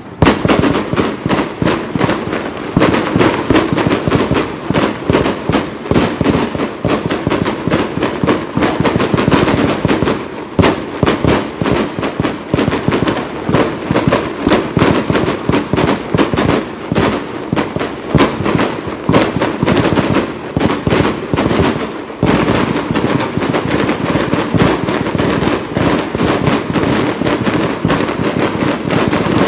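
Fireworks crackling: a dense, fast run of sharp pops like a string of firecrackers, starting abruptly and going on throughout, with short lulls about ten and twenty-two seconds in.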